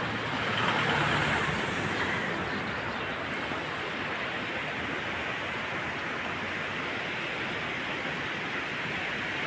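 Fast-flowing mountain water rushing steadily, an even noise with no pitch. A faint low hum fades out in the first couple of seconds.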